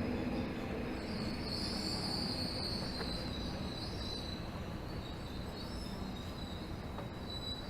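Tokyo Metro 13000 series subway train slowing into a station, heard from inside the car: steady running rumble with high-pitched wheel and brake squeal that swells about a second and a half in.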